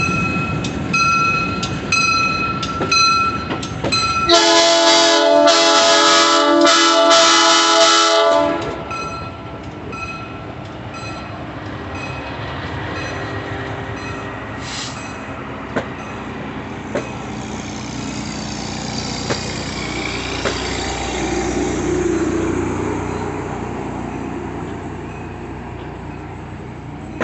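A passing train: wheels click in a steady rhythm over the rail joints with a faint thin squeal, then the locomotive's air horn sounds one loud, chord-like blast lasting about four seconds. The rumble of the passing train then fades slowly, with a few more clicks.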